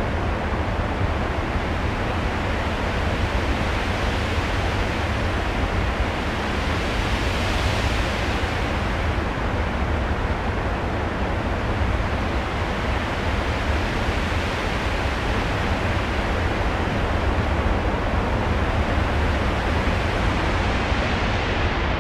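Steady rushing, wind-like noise with a deep rumble underneath, a storm soundscape played through the theatre's sound system. It brightens about eight seconds in, and its highest hiss fades away near the end.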